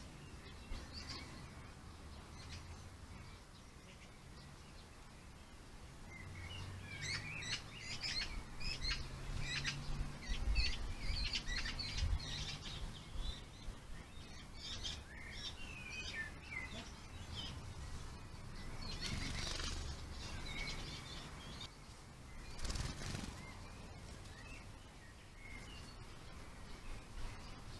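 Small garden birds chirping and calling in quick, high notes. The calls are busiest from about six seconds in to the middle, with a brief rush of noise a few seconds before the end.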